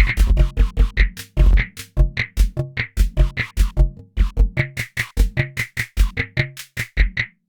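Nord Drum 3P drum synthesizer playing a simple programmed rhythm pattern on one preset kit: quick, evenly spaced deep kick hits mixed with sharp snare-like hits and short pitched tom tones. The pattern stops shortly before the end.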